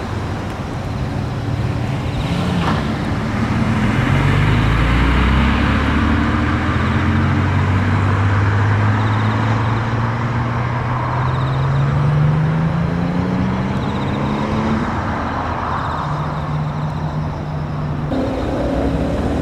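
Car engine running loudly, its note climbing slowly for about ten seconds, then dropping back near the end.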